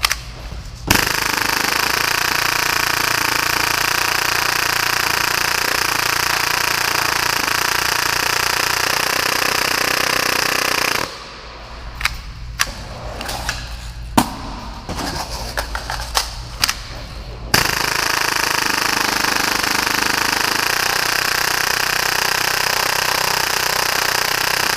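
Full-auto Tokyo Marui Hi-Capa airsoft pistol firing at about 30 rounds per second in a long, even burst of about ten seconds. Then a pause of about six seconds with scattered sharp clicks and knocks, and a second long burst starting near the end.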